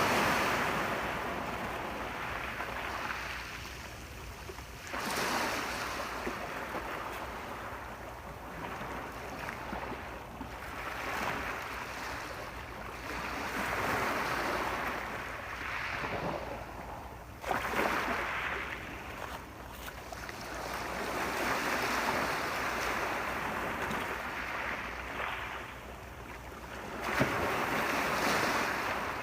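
Ocean waves breaking and washing back, a new wave swelling up about every four to six seconds, a few of them with a sudden crash.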